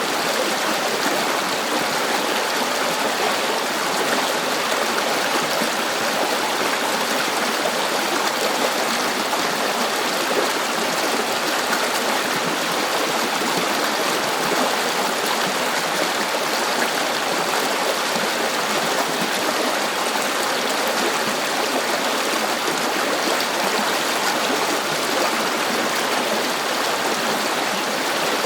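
River water flowing, a steady rushing and babbling with no breaks or changes.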